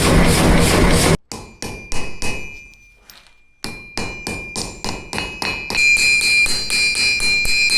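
Hand hammer striking iron on an anvil in quick, even blows, about three a second, each with a bright ringing tone that grows stronger in the second half, with a brief pause near the middle. It opens with a louder, dense pulsing noise that cuts off suddenly about a second in.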